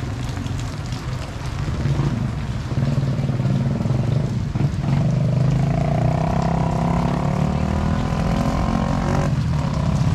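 A motor vehicle's engine running close by on the street, getting louder about three seconds in. A higher steady whine rides over it from about five to nine seconds in.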